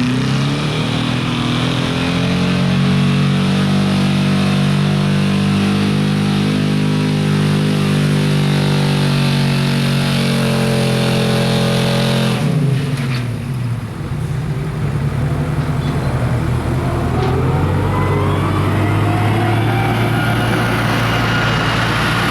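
Big-block engine of a pulling truck running at sustained high revs under load. About halfway through, the revs drop sharply as the throttle comes off, then the engine climbs in pitch again near the end.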